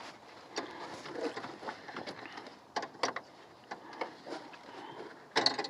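Irregular light clicks and knocks of a part being handled and worked back into place on a car, with a quick cluster of rattling near the end.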